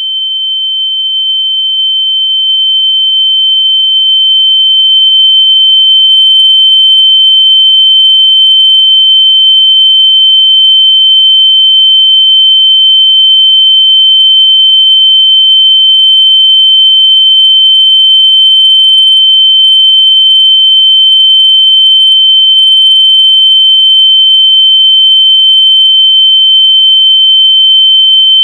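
A single synthetic high-pitched sine tone, grows louder over the first few seconds and then holds steady and very loud. It is a locator tone meant to be played through lost AirPods so they can be found by ear.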